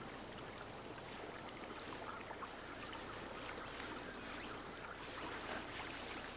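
Mountain stream running over rocks: a faint, steady rush and trickle of water.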